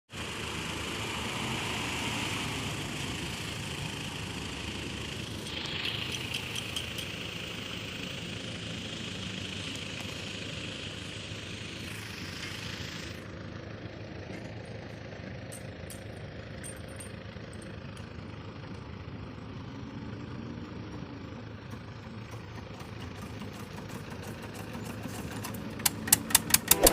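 A large engine running steadily at idle. Rapid, regular clicking starts near the end.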